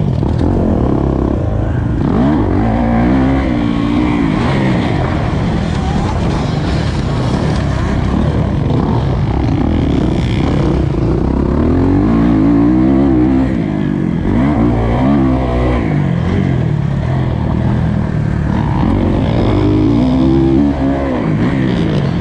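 Kawasaki KX450 four-stroke single-cylinder motocross engine on a track lap, its revs climbing and dropping again and again as the throttle is worked through corners and straights.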